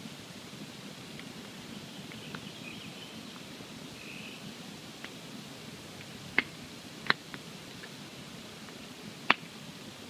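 Wood campfire burning with a low steady rustle and scattered small crackles, broken by three sharp pops about six and a half, seven and nine seconds in.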